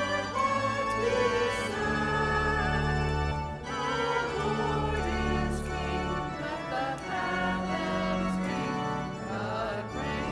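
A hymn sung by several voices over organ accompaniment, with held bass notes under the melody.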